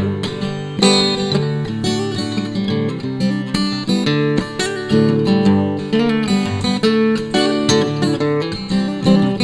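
Instrumental break in a song: acoustic guitar playing, plucked and strummed notes in an even rhythm, without singing.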